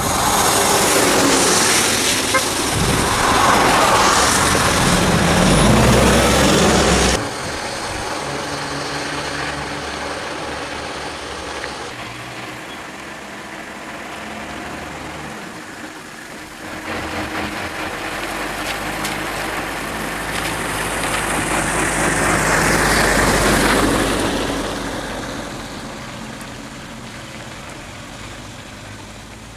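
Motor vehicles running: a loud, noisy stretch of engine and road noise cuts off abruptly about seven seconds in. A steadier low engine hum follows, swells louder later on and fades again.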